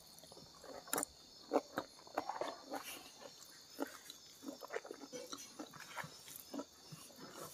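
Eating sounds from a person chewing a mouthful of rice and side dishes: many short, irregular wet mouth smacks and clicks.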